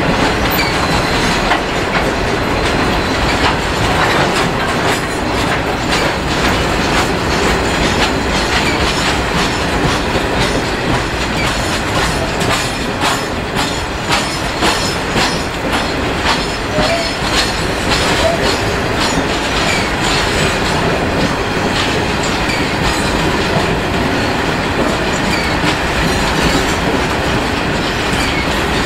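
A long rake of steel grain hopper wagons rolling past at close range, wheels clicking steadily over the rail joints, with now and then a brief faint wheel squeal.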